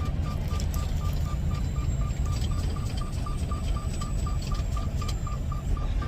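Semi truck cab with the steady low rumble of the engine and road, under a dashboard warning beep repeating about three times a second without stopping.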